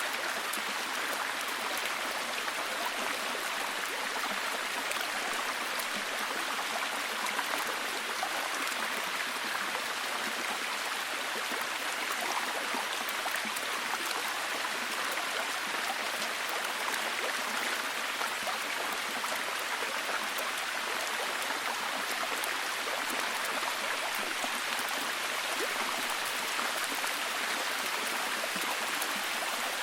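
Steady, even rain falling, a constant hiss of many fine drops.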